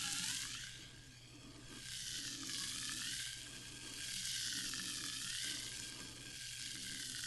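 Sparkling water fizzing: a dense crackling hiss of carbonation bubbles bursting, which swells and eases about every two seconds.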